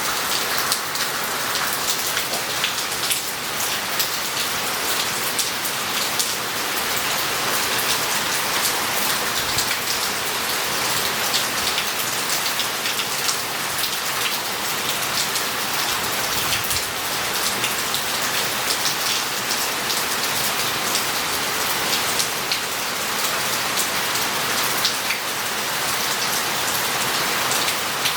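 Heavy rain falling steadily on roof tiles and pavement, a dense hiss packed with sharp drop clicks and splashes.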